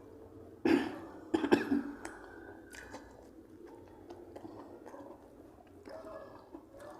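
A person coughs twice within the first two seconds, then goes on with quiet chewing and small mouth sounds while eating.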